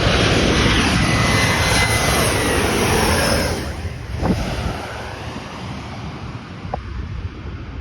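Jet airliner passing low overhead. Its loud jet roar sweeps and falls in pitch, then fades about three and a half seconds in.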